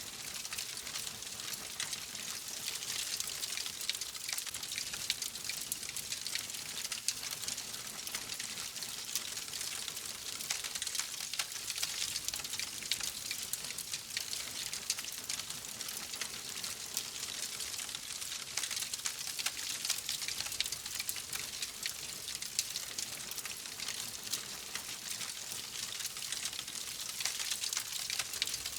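Wood fire crackling steadily: many small, sharp crackles and pops over a soft hiss.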